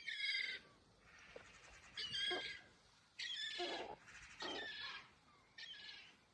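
Birds giving harsh squawking calls, five in a row about a second apart.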